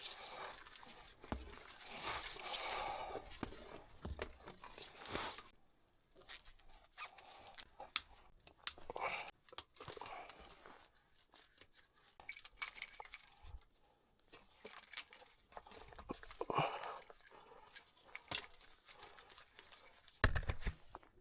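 Scattered handling noises: irregular clicks, rustling and scraping, with a louder stretch of rustling near the start and a knock near the end.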